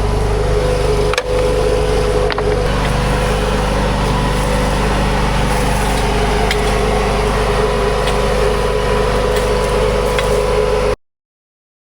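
Huayee LHY480 mini skid steer's engine running steadily, with a few sharp clicks over it; the sound cuts off abruptly near the end.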